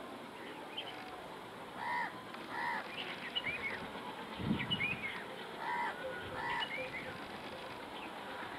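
Birds calling: a pair of short arched calls near the 2-second mark and another pair about four seconds later, with quick chirps from smaller birds in between. A dull thump about halfway through, over a faint steady background hiss.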